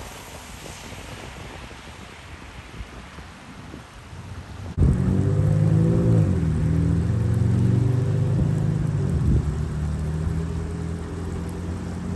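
Steady rush of wind and water noise. About five seconds in, an abrupt cut brings in a much louder low drone with several steady tones, from a vehicle engine.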